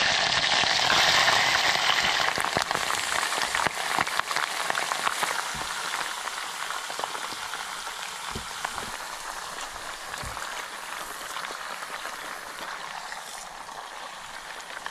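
Food frying in a pan of hot oil: a dense crackling sizzle that is loudest in the first couple of seconds and slowly dies down.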